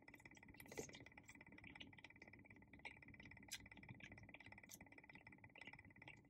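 Near silence: faint chewing and small mouth clicks from eating a chicken wing, over a steady faint high-pitched whine.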